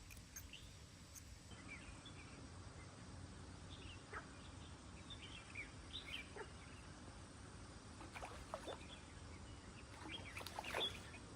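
Faint bird calls, scattered short chirps, over the steady low rush of stream water, with a few brief sharp sounds near the end.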